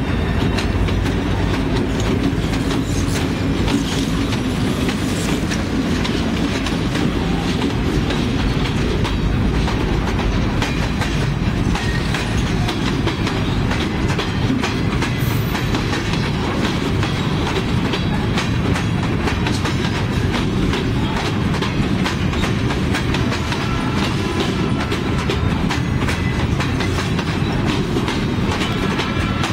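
Freight train passing close by. For the first several seconds the diesel locomotives' engines drone under the rumble, then the freight cars' wheels clack steadily over the rail joints.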